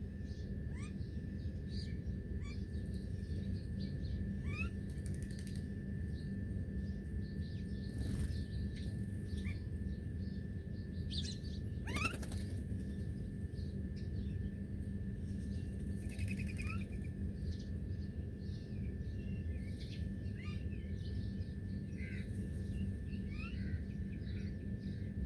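Wild birds chirping: scattered short calls and quick upward-sliding notes throughout, with one louder rising call about halfway through. A steady low background rumble and a thin steady high tone run underneath.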